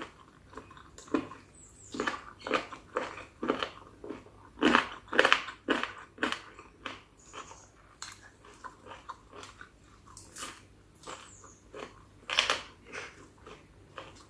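Close-miked eating of spicy chicken feet salad: irregular crunching bites and chewing, with a run of louder crunches around the middle and another loud one near the end.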